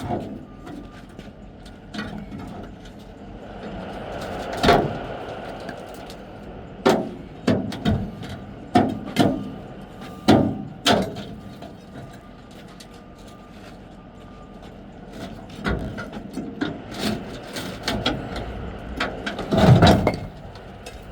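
A series of irregular knocks and bangs over a steady background rumble, with the loudest cluster of bangs near the end.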